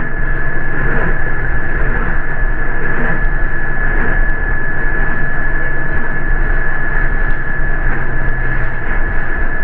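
Steady rumble of a city bus heard from inside while it rides, with a constant high-pitched whine.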